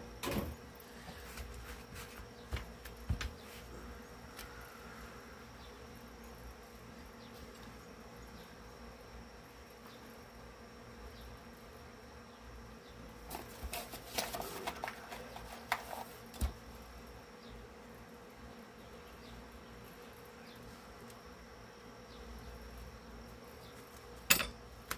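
A faint steady high hum throughout, with scattered short clicks and knocks that bunch together in the middle.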